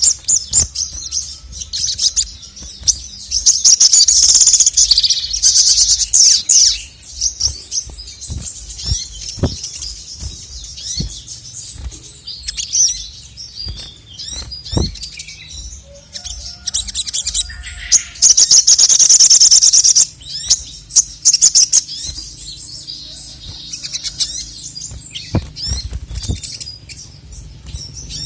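Male sogon (little spiderhunter) singing in loud bursts of high-pitched, rapid chattering trills, with two longer continuous trills about four seconds in and again near the middle. Scattered short clicks and knocks are mixed in.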